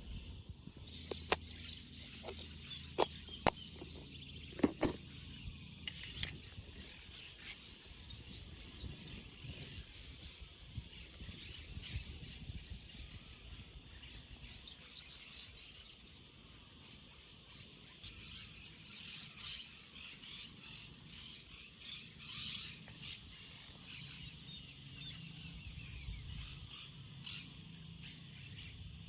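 Riverside nature ambience: a steady high-pitched chorus with bird chirps over it. There are a few sharp clicks in the first six seconds.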